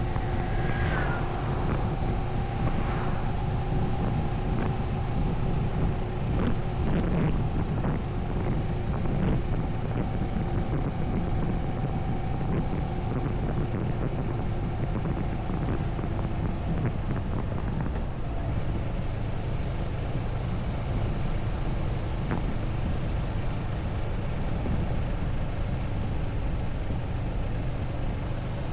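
Moto Morini 6½ Scrambler's parallel-twin engine running at a steady cruise while riding, with wind noise on the camera microphone. The engine note holds steady, its pitch changing little throughout.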